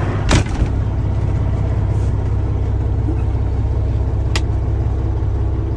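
Caterpillar C15 diesel of a Peterbilt 379 idling with a steady low rumble. A thump about a third of a second in and a sharp click about four seconds in.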